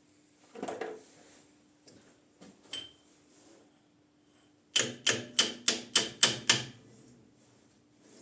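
A quick run of about eight sharp metallic clicks, evenly spaced, from a spanner at work on the bolts holding a bicycle disc brake caliper, preceded by a lighter knock and a small ringing clink of metal.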